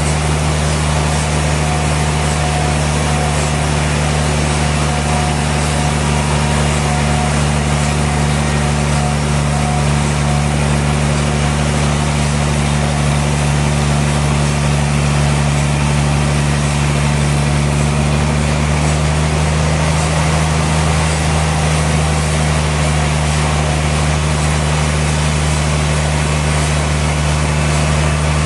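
Sawmill machinery running steadily with a loud, low, even hum and a constant hiss. The hum's pitch shifts slightly about two-thirds of the way through.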